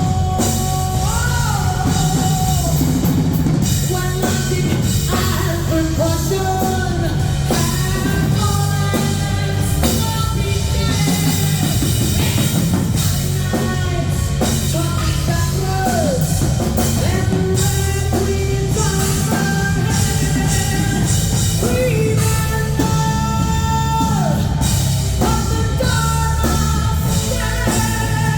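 Live band playing a rock arrangement on drum kit and guitar, with a female vocalist singing over it; the sound stays loud and dense throughout, with a sliding, bending melody line on top.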